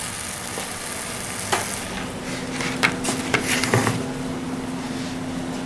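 Bologna slices frying in barbecue sauce in a cast-iron skillet, sizzling steadily. A few sharp clicks and knocks from handling things on the counter fall between about one and a half and four seconds in, and a low steady hum comes in about two seconds in.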